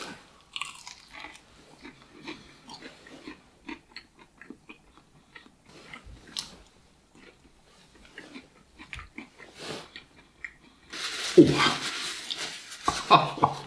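A man biting and chewing a crispy fried chicken wing, with soft, irregular crunches and wet mouth sounds. Near the end come louder breathy sounds from the eater.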